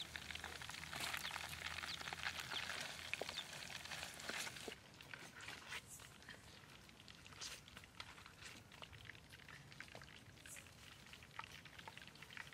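Fish frying in oil in a wok over a wood fire: a dense sizzle with fine crackling. About five seconds in it drops abruptly to a much quieter stretch with only sparse small clicks.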